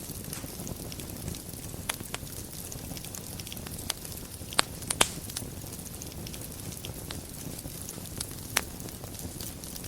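Wood fire crackling in a fireplace: a steady low rumble of burning, with scattered small crackles and a few sharp pops, the loudest two close together about halfway through.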